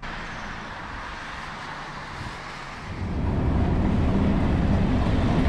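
Freight train passing close by: an even rolling rush at first, then about three seconds in a diesel locomotive's engine comes in, loud and low, with a steady drone.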